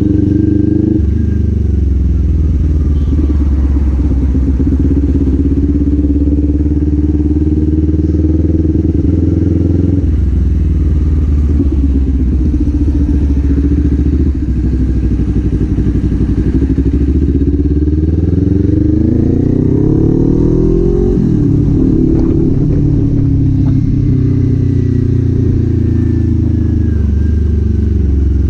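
Kawasaki Z400 399 cc parallel-twin engine running while the motorcycle is ridden. Its pitch steps down about a third of the way in, climbs steadily for several seconds about two-thirds through as the bike accelerates, then drops sharply and settles back to steady cruising.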